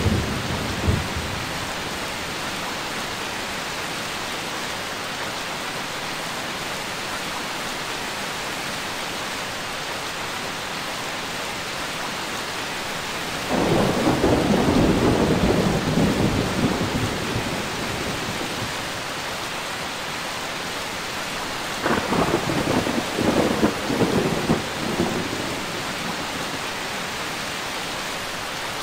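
Steady rain falling, with thunder rolling twice: a long rumble about halfway through, and a more crackling roll of several strokes a little later.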